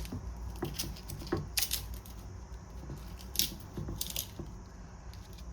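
Dry, papery skins of solo-bulb garlic crackling and rustling as they are peeled off the cloves, with occasional small clicks.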